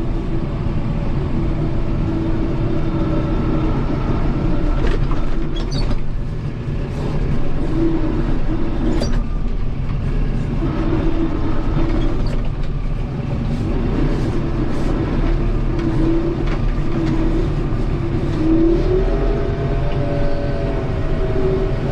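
Kubota M7060 tractor's four-cylinder diesel engine running steadily, with a wavering tone that rises and falls and scattered knocks and clanks.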